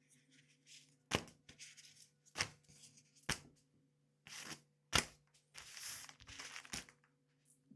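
Hands sorting produce: rustling, broken by about five sharp snaps or clicks.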